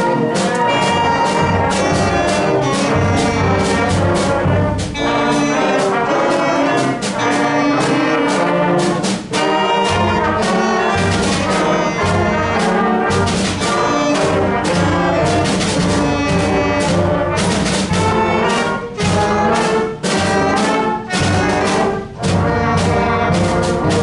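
Student concert band playing, brass and woodwinds over a steady percussion beat.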